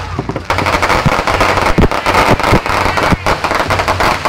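A rapid string of firecrackers going off, a dense run of sharp pops and cracks that thickens about half a second in and keeps on.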